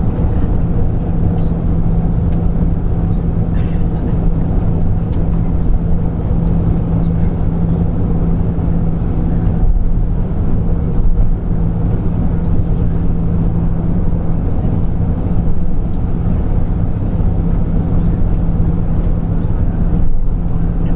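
Cabin noise inside an Airbus A340 taxiing on the ground: a steady, loud low drone from its four jet engines at taxi power, with a constant low hum running through it.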